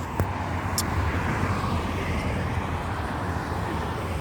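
Road traffic going by, a steady rush of engines and tyres with a constant low hum, with a single click just after the start.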